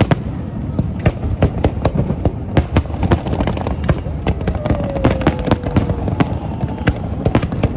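Fireworks going off in quick succession: a continuous run of sharp bangs and crackles, several a second, over a low rumble.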